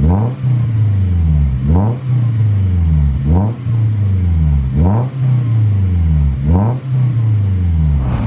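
Daihatsu Gran Max pickup's four-cylinder engine blipped repeatedly through an aftermarket NDK full exhaust system (4-2-1 header, straight resonator, bass muffler): about five revs, each snapping up quickly and dropping back before the next.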